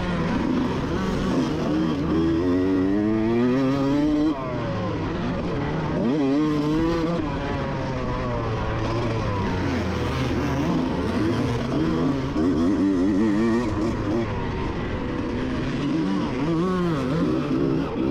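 A 1988 Honda CR125's 125 cc single-cylinder two-stroke engine revving hard under racing throttle. The pitch climbs and falls again and again, with a sudden drop about four seconds in and a steep climb soon after.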